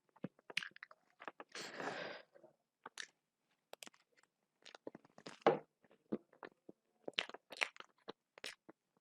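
Close-miked chewing of red velvet cake: wet mouth clicks and smacks, with a brief rustling noise about two seconds in.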